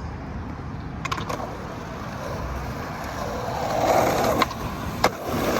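Skateboard wheels rolling fast over wet pavement, a steady rumble that grows louder about four seconds in, with a few sharp clacks from the board.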